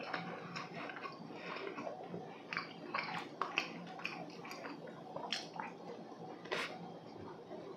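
Close-miked chewing of dry, dense walnut cakes (hodu gwaja), with mouth sounds and a scattered run of short, sharp clicks and smacks.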